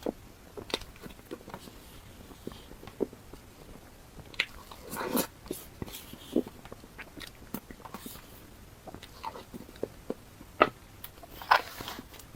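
Close-miked eating: chewing, biting and wet mouth smacks, with irregular sharp clicks and a few louder crunchy bites near the end.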